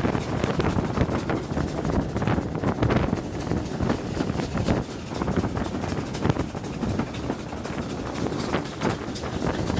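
Steam-hauled train running at speed, heard from an open carriage window: wind buffeting the microphone over a steady rumble and irregular clatter of wheels on the rails.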